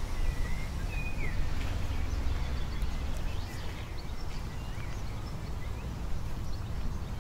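Outdoor garden ambience: a steady low rumble with faint, short bird chirps, several in the first second or so and a few more around the middle.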